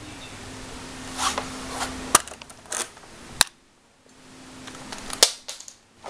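Cheap BB pistol firing three sharp cracks, about two, three and a half, and five seconds in, with lighter clicks and brief rustling of the gun being handled between shots.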